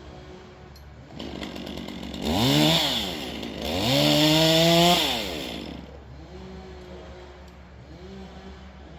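Two-stroke chainsaw idling, revved up hard twice in quick succession, the second rev held for about a second, then dropping back to idle.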